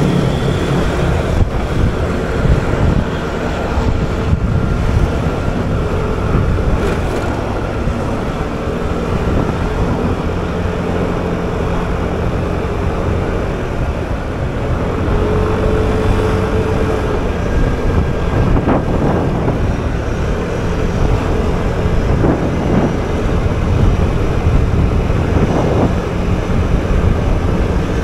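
Motor scooter on the move: the small engine running under a steady low rumble of road noise, with traffic around it.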